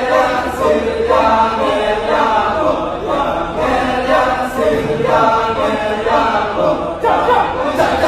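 Balinese kecak chant: a chorus of voices chanting together a cappella, the layered vocal rhythm running without a break.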